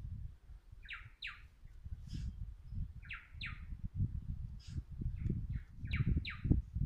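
A bird calling in pairs of quick downward-sweeping chirps, three pairs a few seconds apart, with a few fainter chirps between, over a low, uneven rumble of wind noise.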